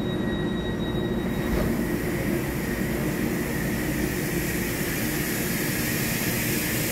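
EMU3000 electric multiple unit pulling out and gathering speed alongside the platform: low rumble of wheels on rail, with a hiss that grows as it speeds up. A steady high tone stops about a second and a half in.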